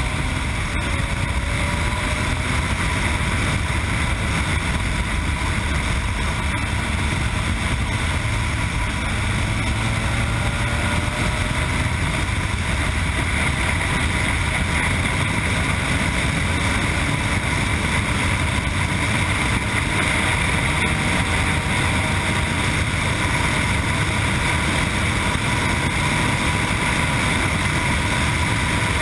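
Yamaha MT-09's three-cylinder engine through an Akrapovic exhaust, heard from on board while riding at speed under heavy wind noise on the microphone. The engine note rises briefly a little past a third of the way in as the bike accelerates, then holds steady.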